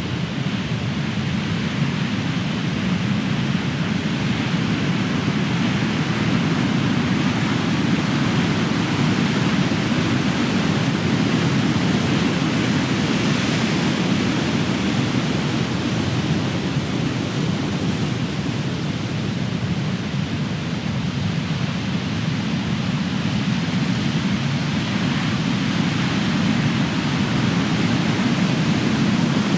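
Large ocean waves breaking on the shore in a continuous low, heavy rush of surf that swells and eases slowly, with no single sharp crash standing out.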